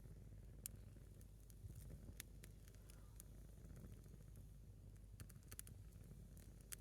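Faint, sparse crackles and pops from a single burning log of firewood, a few scattered clicks with a small cluster near the end, over a low steady rumble.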